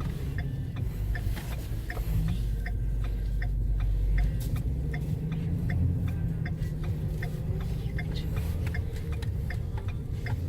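Turn-signal indicator clicking steadily, two to three clicks a second, over the low rumble of the truck's engine and road noise inside the cab.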